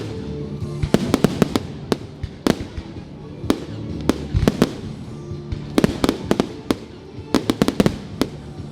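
Fireworks going off: clusters of sharp bangs and crackles every second or so, with music playing underneath.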